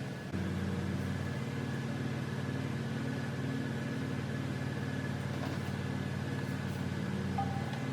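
Small engine running at a steady speed, stepping up slightly about a third of a second in.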